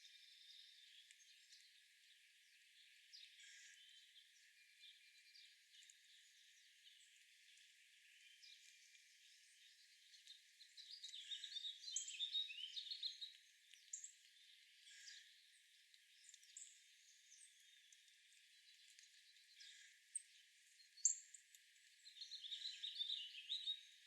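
Faint, high-pitched bird chirping outdoors. Scattered single chirps build into two busier bursts of calls, one about halfway through and one near the end.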